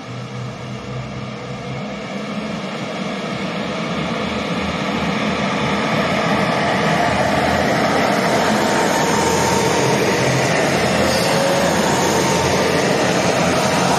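Three-car Shimabara Railway diesel railcar train pulling out of the station and running close past, its engines and wheels growing louder over the first several seconds and then holding steady.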